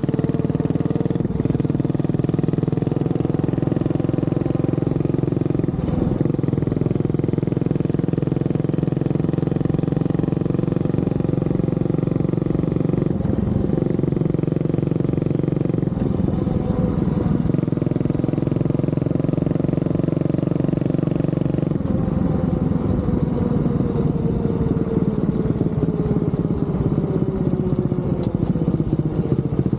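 Honda CB400SS single-cylinder motorcycle engine running under way at a steady pitch, broken briefly a few times. In the last third its pitch falls steadily as the bike slows.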